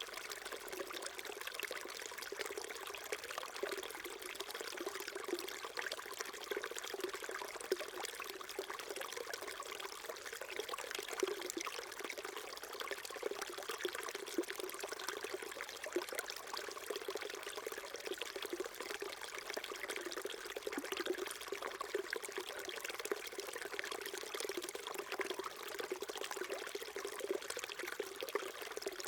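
Small mountain stream trickling and babbling steadily over stones, an even, unbroken water sound.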